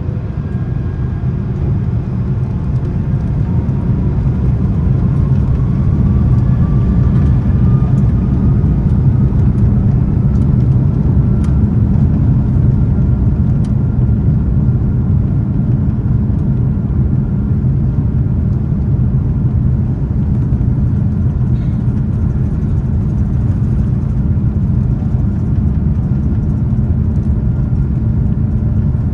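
Airbus A330-300 jet engines heard from the cabin over the wing, spooling up to takeoff thrust: a loud, steady roar and rumble that swells over the first few seconds, with a faint whine rising in pitch beneath it.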